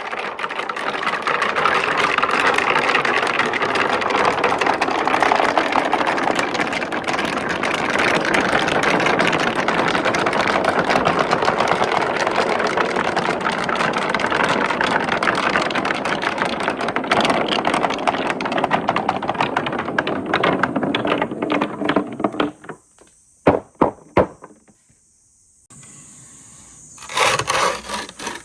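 Marbles rolling and rattling down a marble run in a continuous dense clatter, which thins out about three-quarters of the way in to a few separate clicks as the last ones finish, with a short burst of clatter near the end.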